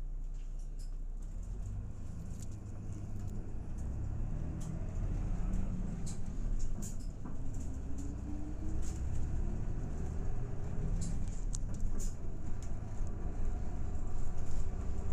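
Interior of a Hinomaru Jidosha route bus under way: a low diesel engine drone with a rising whine from about six to eleven seconds in, as the bus accelerates and gets louder. Light clicks and rattles from the cabin run over it.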